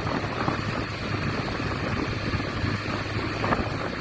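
Motorcycle on the move: a steady engine hum and road noise, with wind buffeting the microphone.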